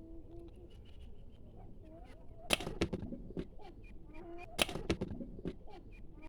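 Pigeons cooing in short low calls, with two sharp clatters about two and a half and four and a half seconds in.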